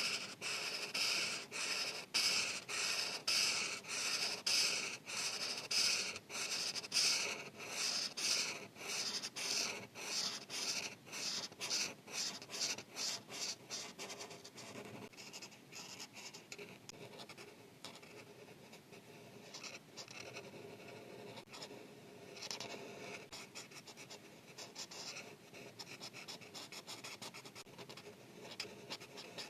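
Felt-tip marker scratching on paper in quick, even back-and-forth coloring strokes. About halfway through the strokes turn quieter and lighter.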